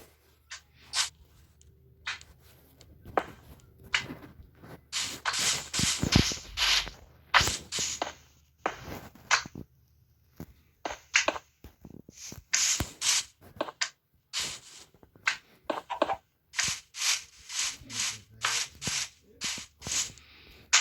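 Irregular rubbing and scraping strokes, some short and some about a second long, starting and stopping unevenly.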